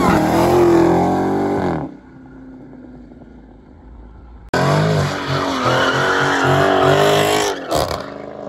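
Dodge Challenger Widebody's V8 pulling away under hard acceleration, loud, then cut off short. About halfway through, a second car's engine is held at high revs with its tyres squealing in a burnout, easing off near the end.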